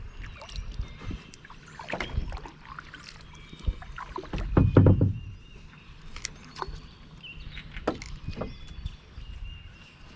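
A kayak being paddled: scattered knocks and splashes of the paddle and hull in the water, with one louder low thump about four and a half seconds in.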